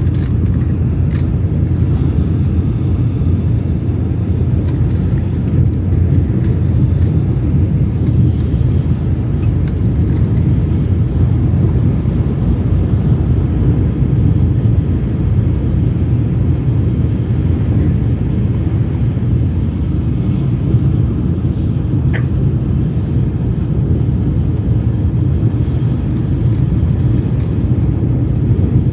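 Steady low rumble of a Shinkansen bullet train running at speed, heard inside the passenger car, with a few faint clicks.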